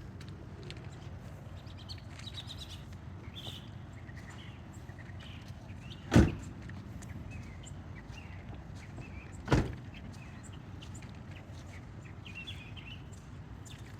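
Steady low rumble of a vehicle moving slowly, with two sharp thumps about three and a half seconds apart, and faint bird chirps behind it.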